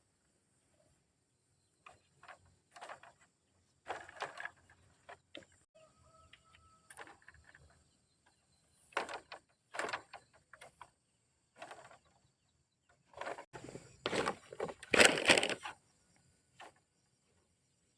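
Chickens clucking and calling in short, scattered bursts. Louder rustling or handling noise comes near the end.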